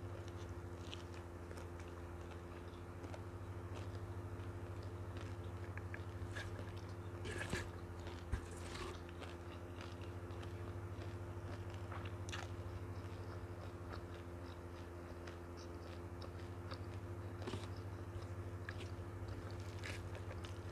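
Close-miked chewing and biting of a mouthful of rice and noodles, with scattered short clicks and mouth sounds, over a steady low hum.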